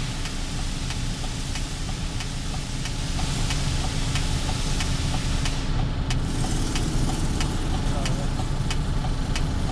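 Mercedes truck diesel engine idling steadily with light regular ticking, getting a little louder about three seconds in. Cylinder 4 is being cut off from the diagnostic computer and the running does not change, the sign that cylinder 4 is not firing.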